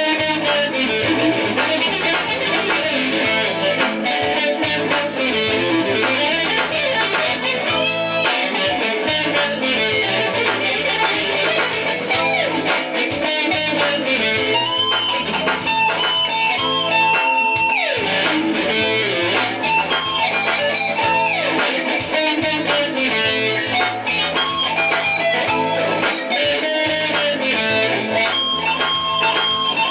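Guitar instrumental music: a lead guitar line with bent and sliding notes over an accompaniment, with a long falling slide about 18 seconds in.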